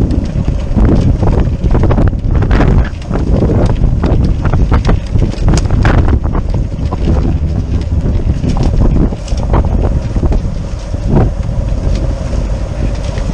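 Wind buffeting the microphone aboard a sailboat under way: a loud, uneven rumble with frequent short gusts.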